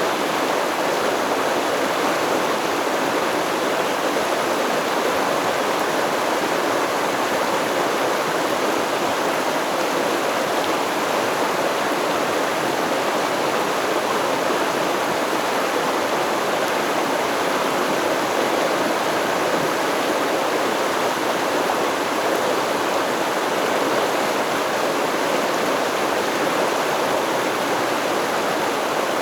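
A stream of flowing water running steadily, an even, unbroken rushing with no birdsong or music over it.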